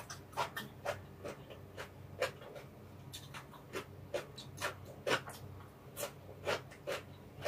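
Close-miked eating sounds: wet chewing and lip smacks from a mouthful of stir-fried ramen noodles and bean sprouts, a string of short, irregular clicks.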